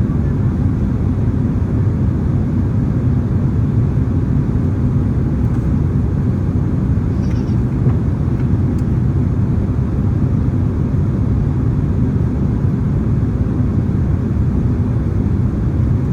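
Steady low drone of airflow and engines inside the cabin of a Boeing 767-300ER in flight, with a few faint ticks.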